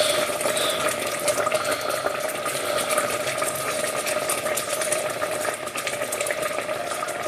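Risotto simmering in a pan: a steady bubbling with fine crackling, over a constant low hum.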